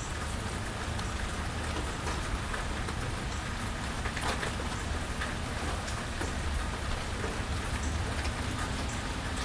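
Steady rain falling, with scattered close drips and splashes over a constant low rumble.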